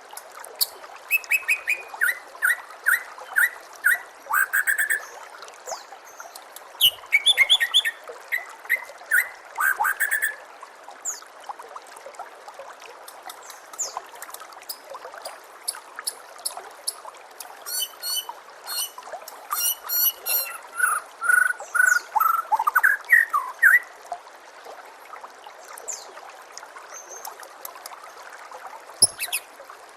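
White-rumped shama (murai batu) singing in varied phrases: runs of quick repeated notes, high fast trills and short rising notes, with pauses between, thinning out over the last few seconds. Under it runs a steady trickle of water.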